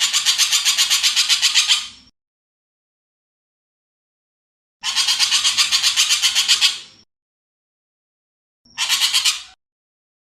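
Harsh, rasping rattle calls of an ekek keling bird, each a fast string of about nine pulses a second. They come in three bouts: the first ends about two seconds in, a second lasts about two seconds, and a short one comes near the end.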